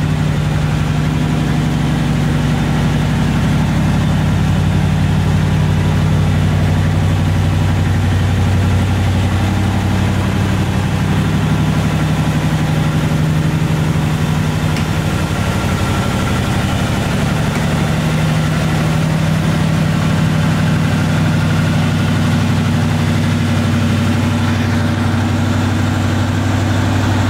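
1966 Chevrolet Chevelle SS's 396 big-block V8 idling steadily through its dual exhaust, a low, even running note.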